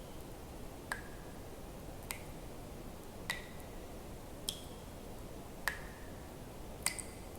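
Water dripping in single drops, six in all at an even pace of about one every second and a quarter. Each drop is a sharp plip with a short ringing tone whose pitch changes from drop to drop, over a faint steady hiss.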